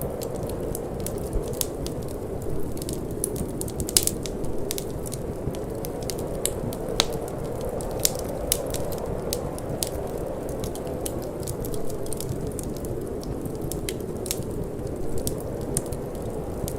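Wood fire crackling in a fireplace, with irregular sharp pops several times a second and a few louder snaps, over a steady low rush of wind.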